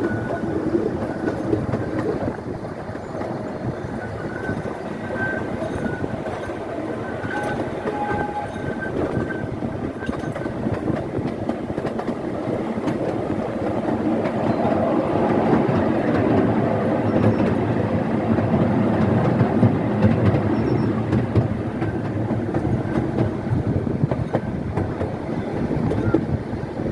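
Open passenger cars of a small scenic railway train rolling along the track, with a steady rumble and the clickety-clack of wheels over rail joints, growing louder about halfway through.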